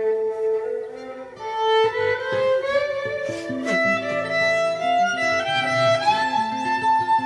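Music: a violin playing a melody with sliding notes over guitar accompaniment.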